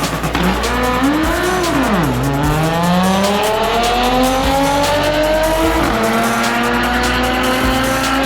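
Chevrolet Camaro's LS V8 under full throttle on a drag launch. The engine note climbs, drops sharply about two seconds in, climbs steadily for several seconds, then drops again about six seconds in as the car shifts up through the gears.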